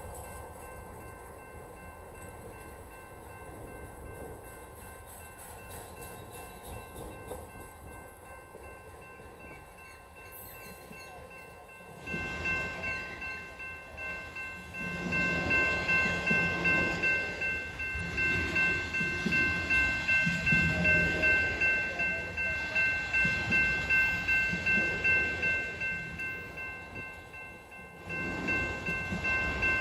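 Freight train of autorack cars rolling past, the wheels rumbling and clattering. About twelve seconds in it grows louder and a steady high-pitched ringing of several tones joins; near the end the ringing stops and the rolling noise dips, then picks up again.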